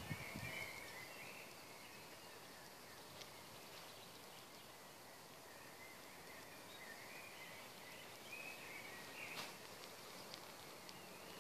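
Faint, distant birdsong over quiet open-air background hiss, with short chirping phrases coming and going and a single light click about nine seconds in.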